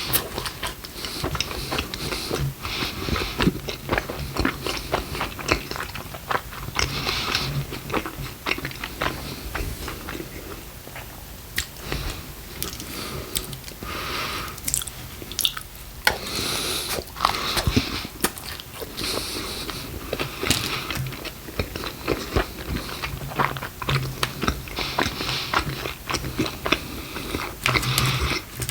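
Close-miked chewing and biting of Taco Bell food: wet mouth sounds with crunchy bites, coming in repeated bouts.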